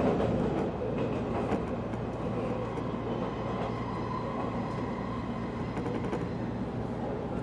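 JR 185 series electric train running, heard from on board: a steady rumble of wheels on rail with a few faint clicks in the first two seconds and a faint steady whine.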